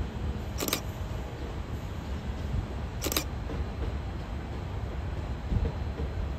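Low steady rumble of a JR West 227 series electric train moving slowly through the station tracks. Two short sharp noises cut through, about two and a half seconds apart.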